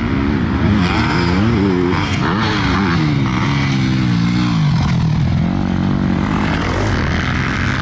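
Motocross bike engines racing, with one bike's pitch rising and falling again and again as the rider works the throttle.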